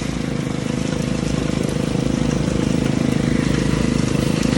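Small engine on gold-prospecting equipment running steadily at a constant speed, with a fast, even pulse.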